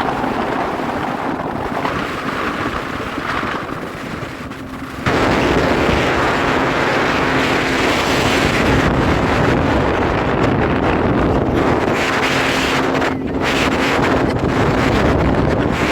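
Speedboat engine running under a rush of wind on the microphone and water noise. About five seconds in it all grows suddenly much louder and stays so.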